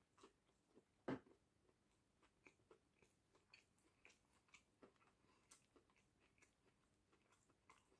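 Faint eating sounds from a man biting into and chewing a McDonald's McChicken breaded chicken sandwich: one louder crunch of a bite about a second in, then scattered small mouth clicks of chewing.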